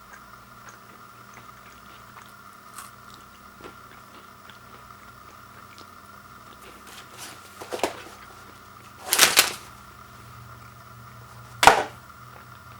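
Granola bar packaging being handled: three short crinkling rustles, the loudest about nine seconds in, over a faint steady hum.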